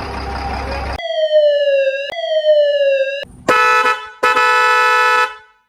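An engine rumble cuts off about a second in, followed by two falling siren-like tones and then two long horn blasts, the second longer than the first.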